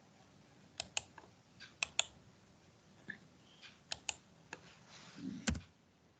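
Typing on a computer keyboard: irregular, sparse key clicks, some in quick pairs, with a duller knock near the end.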